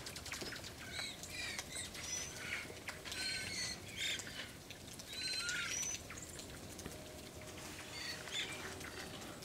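A flock of varied thrushes calling to one another: many short, high trilling and warbling notes, overlapping and scattered throughout, with a few quick rattling trills.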